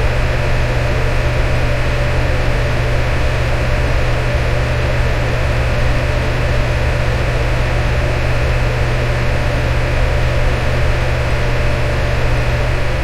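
Electric fan running steadily: an even whooshing noise over a deep steady hum.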